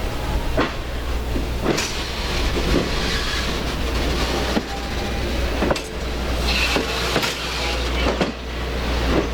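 Excursion train running on the rails: a steady rumble with irregular clicks and knocks from the wheels passing over rail joints.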